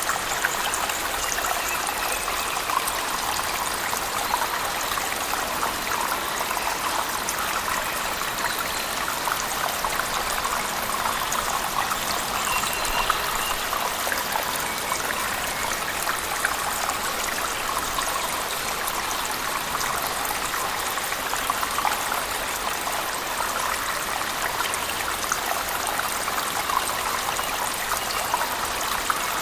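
Cave waterfall falling steadily, mixed with heavy rain: an even, unbroken rush of water with fine crackle, no thunder.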